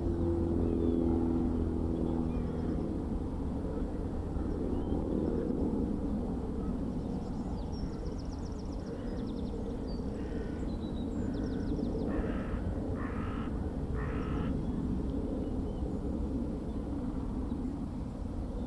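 A crow cawing three times in a row past the middle, over a steady low outdoor rumble. A droning hum with several pitches fades out in the first few seconds, and a small bird gives a brief fast trill shortly before the caws.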